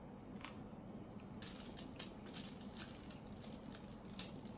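Faint chewing of a mouthful of pasta, with a run of soft, quick, irregular mouth clicks from about a second and a half in.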